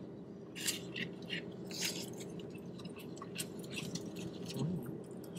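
Close-up chewing and mouth sounds of eating, with light clicks and scrapes of plastic utensils in a takeout container, over a faint steady hum.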